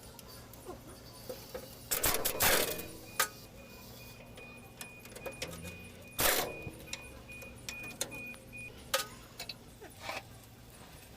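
Metal tools and parts clinking and clanking in a workshop: scattered sharp knocks, with two longer rattling scrapes about two and six seconds in.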